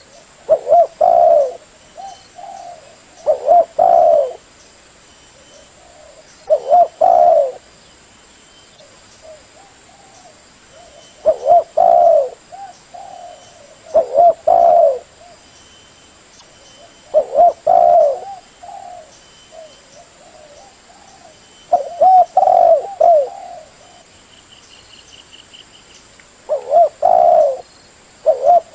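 Spotted dove cooing: a loud phrase of two or three low coos repeats every three to four seconds, with faint high chirps between phrases.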